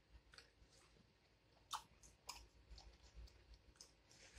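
Faint close-up chewing of pizza: soft wet mouth clicks and smacks, with two louder clicks a little under two seconds in and shortly after.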